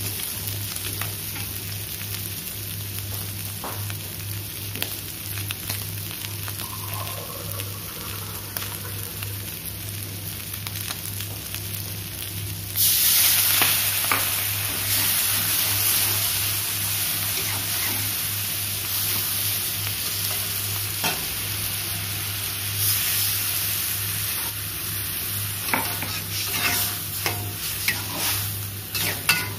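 Tongkol fish and chili paste frying in an aluminium wok, stirred with a metal spatula. About thirteen seconds in, liquid goes into the hot pan and the sizzle turns suddenly into a loud steady hiss, which keeps on as the sauce cooks, with the spatula scraping against the wok more often near the end.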